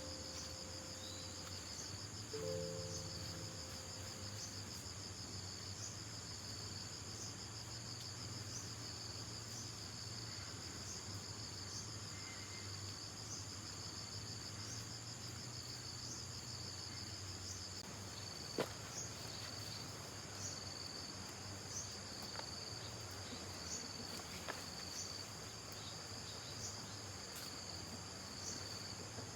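Steady high-pitched insect chorus, trilling with an even repeating pulse, like crickets at night. A few faint musical notes sound in the first seconds, and a single sharp click comes a little past halfway.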